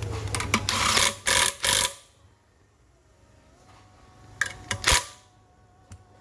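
Tools and metal parts being worked by hand: a run of loud rasping strokes in the first two seconds, then a few sharp knocks about five seconds in, over a low hum that fades about two seconds in.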